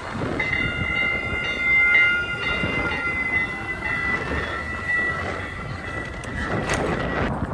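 Train horn sounding a long held chord of several tones. It breaks off for a moment at the start, then holds for about seven seconds before stopping near the end, with a running rumble and wind noise beneath it.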